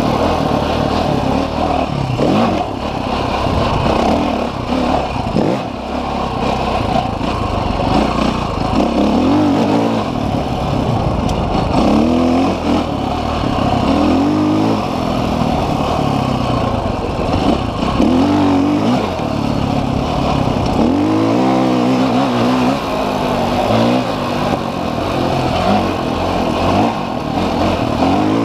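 Off-road motorcycle engine running under load on a trail, its pitch rising and falling again and again as the throttle is opened and closed.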